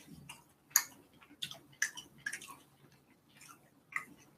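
Chewing and mouth smacking while eating short rib (galbi): a handful of wet clicks at irregular intervals.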